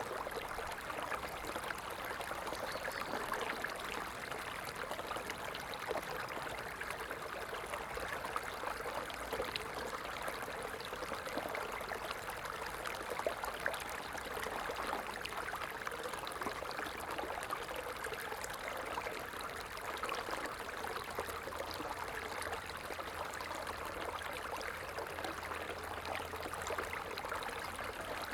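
Stream water flowing and trickling steadily, a continuous rushing babble with small splashes throughout.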